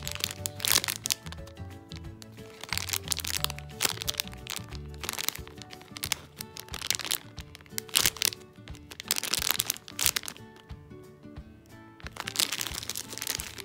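Clear plastic packaging bag crinkling and crackling in about half a dozen bursts as the squishy bread toy inside it is handled and squeezed, over background music.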